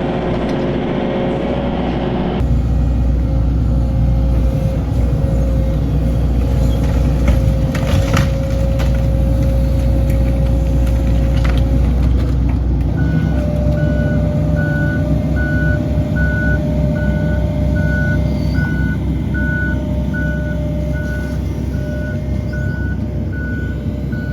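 Excavator engine running steadily while it tears into debris, with a couple of sharp cracks. About halfway through, a backup alarm starts beeping evenly, about one and a half beeps a second.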